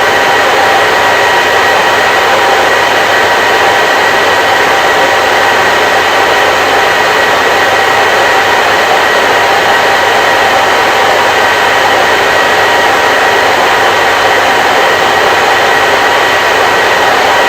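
Electric hair dryer running continuously, a steady loud rush of air with a faint high whine from its motor.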